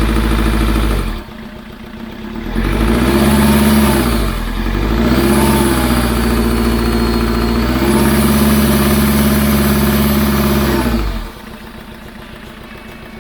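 Vehicle engine being revved in repeated runs, each held high for a few seconds, then dropping back to idle about 11 seconds in. It is being run up on test after a newly fitted timing belt, to listen for a strange noise.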